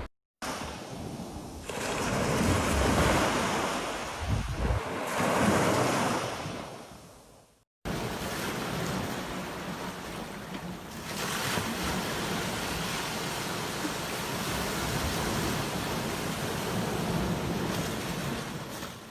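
Sea waves breaking and washing up a beach, rising and falling in swells, with a low rumble of wind on the microphone. The sound cuts out briefly twice where clips are joined.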